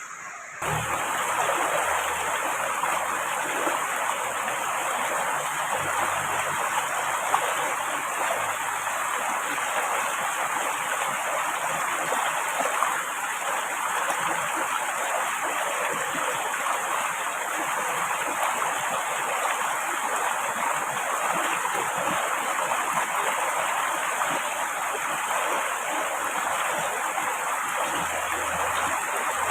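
Steady rushing of flowing water, a dense even hiss that starts abruptly about half a second in and holds level.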